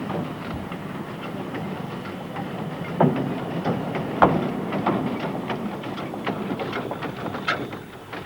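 2-foot gauge steam tank locomotive hauling a rake of coal wagons along the track: a steady running rumble with irregular clanks and rattles from the wagons, the loudest knocks about three and four seconds in.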